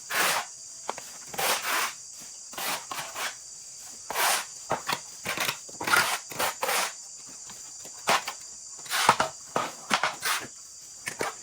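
Irregular short rustling strokes, one to three a second, over a steady high insect buzz.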